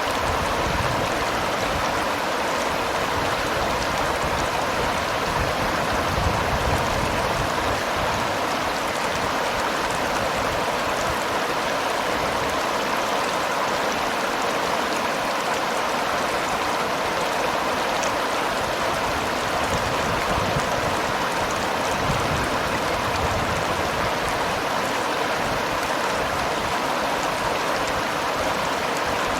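Seomjin River water flowing and rushing steadily, a continuous even rush of moving water.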